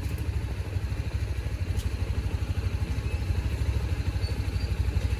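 A vehicle engine idling close by: a steady low rumble with an even, rapid pulse.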